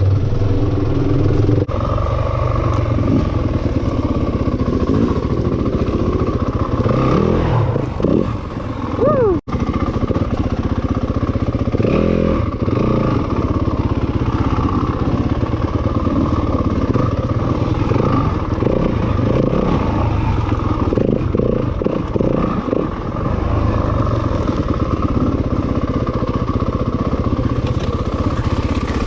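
Dirt bike engine running while being ridden, revving up and down, with a momentary break in the sound about nine seconds in.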